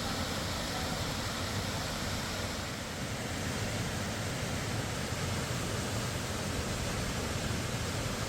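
Waterfall running: a steady rush of falling water with no let-up, its tone shifting slightly about three seconds in.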